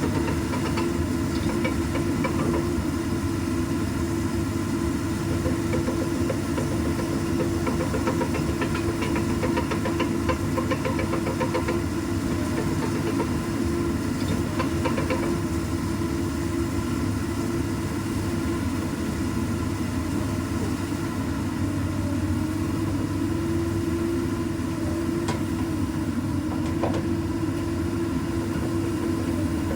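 Komatsu PC200 excavator's diesel engine running steadily at a constant speed.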